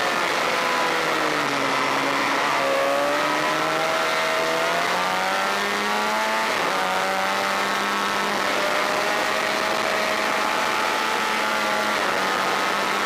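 Honda VFR400 V4 racing motorcycle engine at speed, with wind rush. The revs drop briefly, climb hard to a gear change about six and a half seconds in, then hold high and steady.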